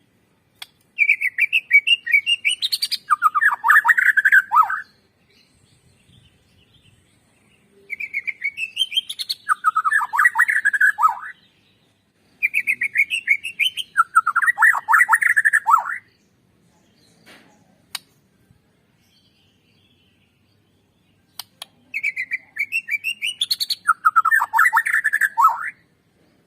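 White-rumped shama (murai batu) singing the same song phrase four times, with pauses between: each phrase is a quick run of high chattering notes that climbs, then drops into a lower rapid trill.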